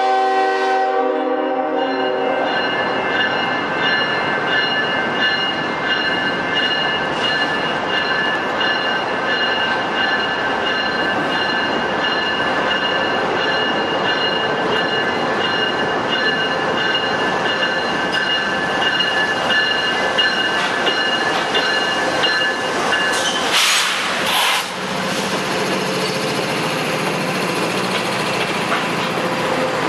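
Freight train's diesel locomotive horn sounding and cutting off about two seconds in, then the train rolling slowly closer with steady high-pitched ringing tones over the rumble of wheels on rail. About three-quarters through there is a brief, very loud hiss, and the lead diesel locomotives' engines then hum low as they pass close by.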